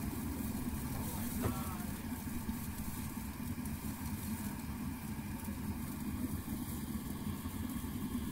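Steady low engine hum, with a short rising squeak about a second and a half in.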